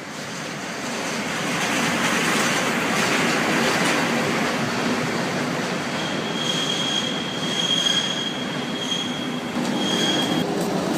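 Passenger train rolling on the rails, growing louder over the first couple of seconds. A steady high-pitched wheel squeal joins about six seconds in and stops shortly before the end.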